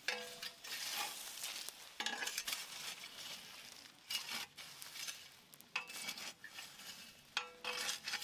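Irregular scraping and crackling of charcoal in a large iron pot, with sharp clicks and a few light metallic clinks.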